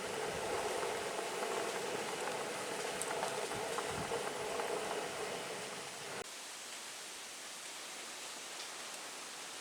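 Steady rain. Underneath it runs a hum that cuts off suddenly about six seconds in, leaving only the rain.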